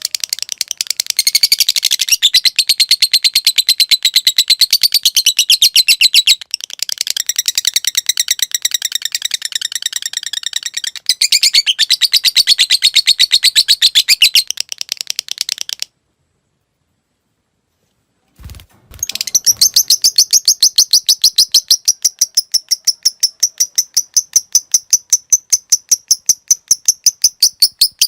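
Lovebird singing its long 'ngekek' chatter: long runs of rapid, high, repeated notes. The chatter cuts off about 16 s in for a couple of seconds of dead silence, then a short low thump, then another long run of chattering.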